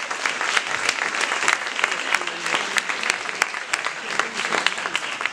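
Audience applauding steadily, with scattered voices under the clapping.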